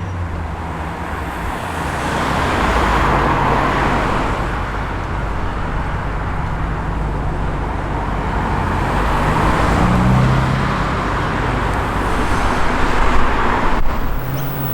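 Rotary-engined car rolling slowly past at low revs, with other car traffic around it. The engine sound swells about three seconds in and again around ten seconds in.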